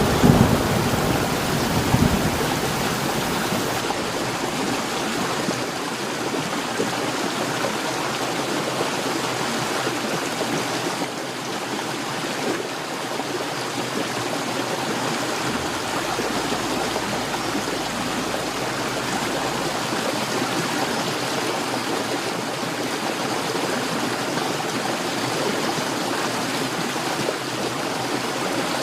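Heavy rain pouring down in a steady, even hiss. The tail of a thunder rumble dies away in the first two seconds.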